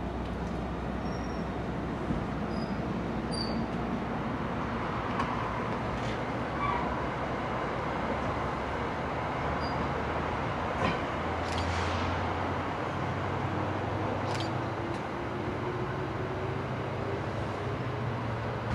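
Diesel locomotive engine running steadily, its low note shifting about eleven seconds in, with a few faint clicks.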